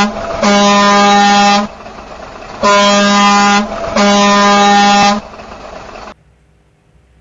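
Truck air horn sounding in long blasts of about a second each, the 'paon paon' honk of a truck on the road. One blast ends just after the start, then three more follow in two pairs, over a steady background noise that cuts off about six seconds in.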